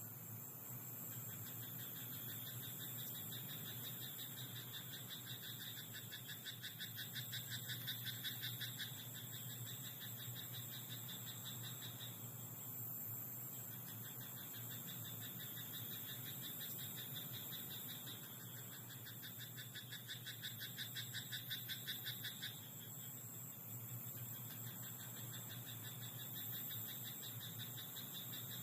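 Frogs calling in a rice paddy: a steady high trilling chorus, with two louder bouts of fast, evenly pulsed croaking, one a few seconds in and another about two-thirds of the way through.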